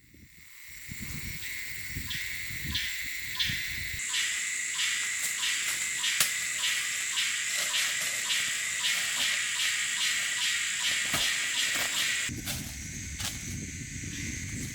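Steady outdoor insect chorus, a high, even hiss with many quick, fairly regular clicks through it.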